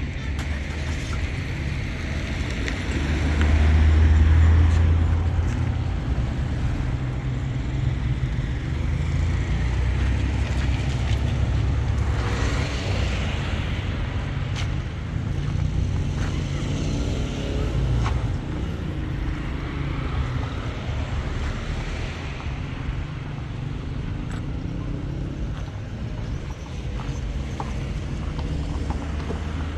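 Motor vehicle running: a steady low engine and road rumble, swelling louder for a couple of seconds about four seconds in.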